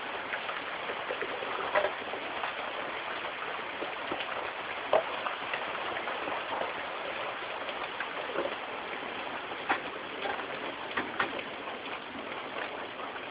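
Steady rain falling, a continuous hiss with scattered louder drops ticking throughout.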